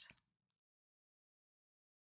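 Silence: the tail of the narrator's last word fades within the first quarter second, then nothing.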